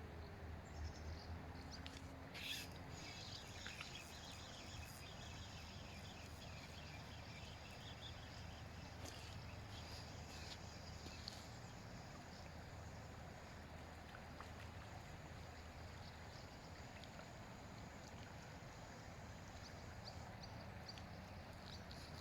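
Faint outdoor ambience: a steady low hum with a few faint high chirps in the first half and scattered light clicks.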